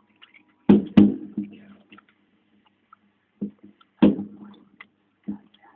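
Fireworks bursting: two loud bangs just under a second in, then a softer pair and a louder bang around three and a half to four seconds in, each bang trailing off in an echoing rumble.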